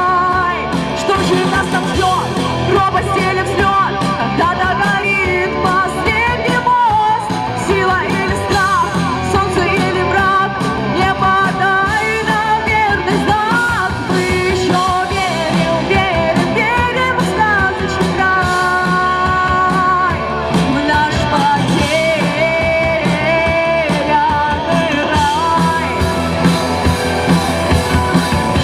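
Rock song played by a band, with a sung melody line held over a steady, dense backing.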